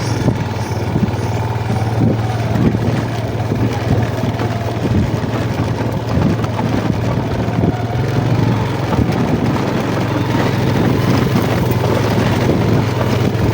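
Yamaha Jupiter MX motorcycle engine running steadily while riding, with occasional short thumps over the ride.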